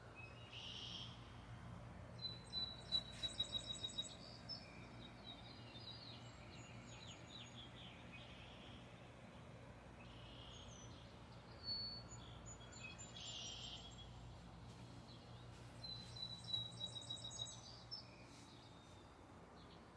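Birds chirping and calling, faintly, with two bursts of quick repeated chirps, one a few seconds in and another near the end, over a low steady hum.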